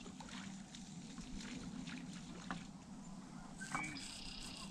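Faint outdoor background with a few soft ticks, and a bird calling for about a second near the end.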